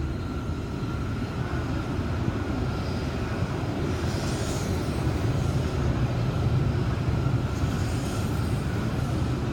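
Train running past: a steady rumble with a thin steady whine over it, growing slightly louder in the second half.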